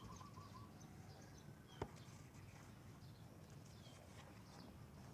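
Near silence with a few faint, short bird chirps and a single sharp click about two seconds in.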